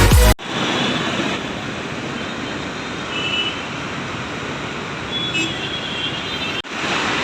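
Electronic music cuts off abruptly about half a second in, giving way to the steady noise of road traffic, with a couple of brief high-pitched tones in the middle.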